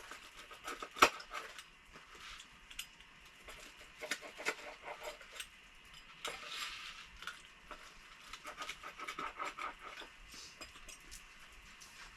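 People chewing crisp pizza crust, with a scatter of small crunches, clicks and light clinks, and one sharper click about a second in.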